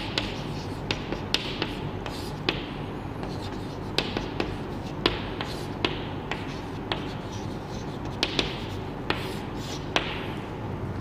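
Chalk writing on a blackboard: an irregular run of sharp taps as the chalk strikes the board, with short scratchy strokes between them.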